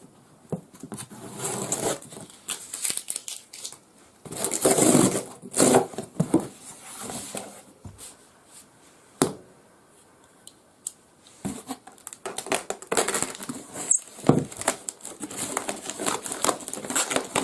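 Plastic and cardboard packaging being handled and opened: irregular rustling and crinkling with scattered clicks and taps, loudest about five seconds in, briefly quieter around ten seconds, then busy again.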